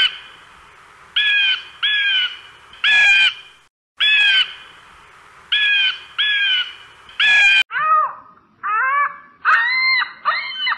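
Short, harsh animal calls in groups of one to three, the same sequence heard twice in a row, then from about eight seconds in a lower series of rising-and-falling cries.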